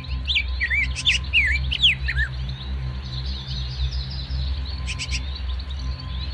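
Birds chirping: a quick run of rising and falling chirps in the first two seconds, then fainter twittering, over a low steady drone.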